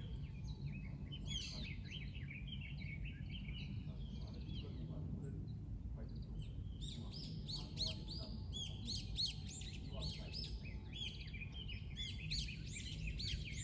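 Small songbirds chirping in quick, overlapping runs of short high notes, thinner early on and busier from about halfway through, over a steady low wash of lake water lapping at the shore.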